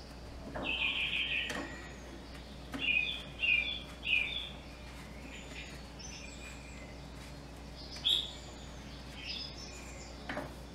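Small bird chirping in short, bright calls: a quick run of three about three seconds in, a sharper single call near eight seconds, and fainter chirps between.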